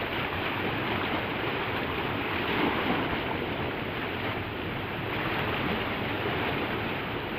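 Water rushing steadily from the rain catcher's outflow, a continuous even rush with no breaks.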